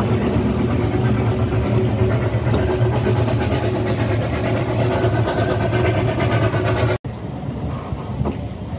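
Narrow-gauge railway carriage running along the track: a steady rumble and rattle of wheels and running gear, heard from the open end balcony. It breaks off abruptly about seven seconds in and carries on quieter.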